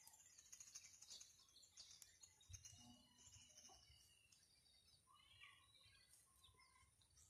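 Near silence: faint outdoor ambience with small birds chirping now and then.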